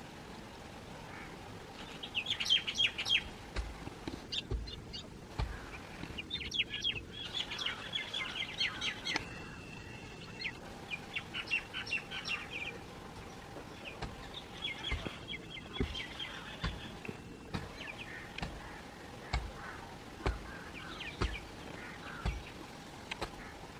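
Birds chirping in quick bursts of rapid, high calls every few seconds, over a faint steady hum, with a few low thumps.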